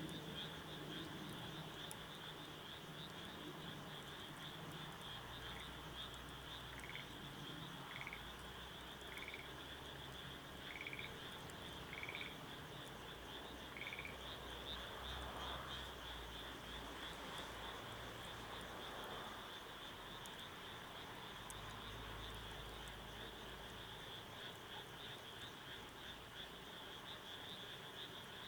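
Outdoor animal chorus: a steady high-pitched chirring, typical of insects, runs throughout. Over it, six short calls come about every 1.3 s in the first half, with a faint low rumble underneath.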